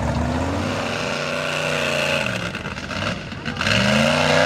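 Mega truck engine revving hard in a mud bog: it climbs, eases off a little after two seconds, then revs up again about three and a half seconds in.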